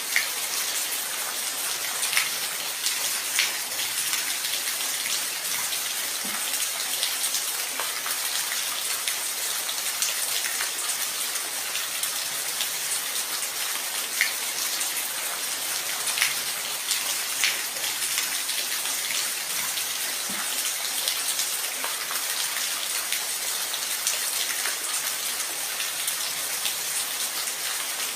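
Steady rainfall, an even hiss with scattered individual drop ticks standing out now and then.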